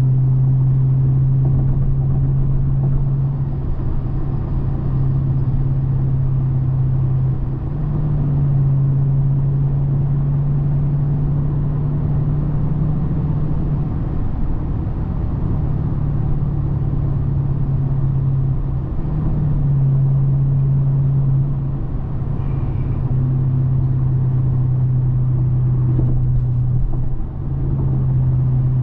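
2010 Hyundai Genesis 4.6-litre V8 engine and exhaust droning at a steady cruise with road noise, its low pitch shifting slightly up and down a few times with throttle.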